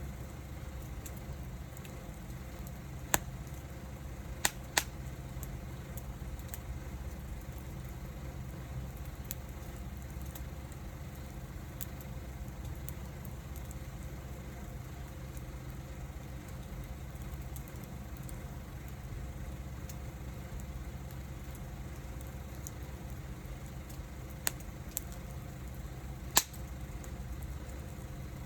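Wood fire crackling, with a handful of sharp pops, a few about three to five seconds in and more near the end, over a steady low rumble.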